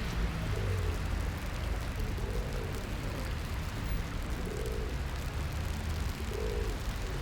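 Rainy street ambience: a steady low traffic rumble under the hiss of rain, with a pigeon cooing about every two seconds.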